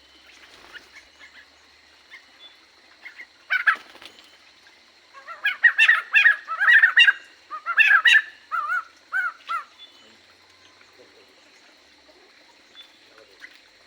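Aviary birds calling: one loud call about three and a half seconds in, then a run of loud, repeated calls that rise and fall in pitch for about four seconds, dying away near the ten-second mark. A faint steady high tone sits underneath.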